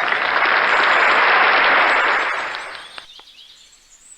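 Applause, a burst of many hands clapping that fades away about three seconds in.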